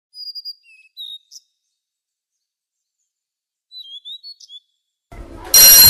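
Small bird chirping in two short bouts of quick, sliding chirps. About half a second before the end, a loud electric school bell starts ringing.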